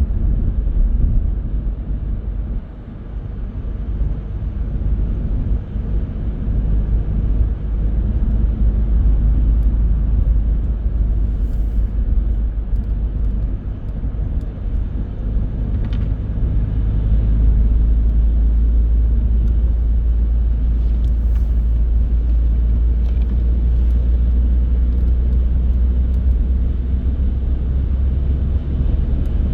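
A car driving along: a steady low rumble of road and engine noise, with a few faint ticks.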